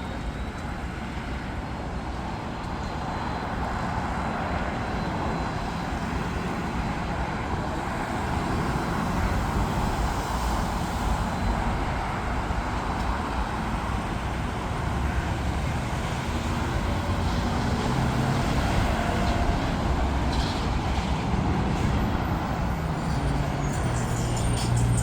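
Jet airliner engines: a steady, broad roar that grows slowly louder.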